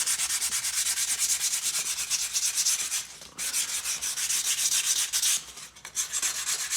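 Fine sandpaper rubbed in quick, short strokes over the corners of a polystyrene foam brick, a dry hiss that pauses briefly about three seconds in and again near six seconds. The edges are being smoothed to a matte finish without bumps.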